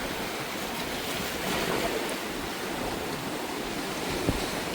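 Steady rush of sea waves and surf, with one short knock about four seconds in.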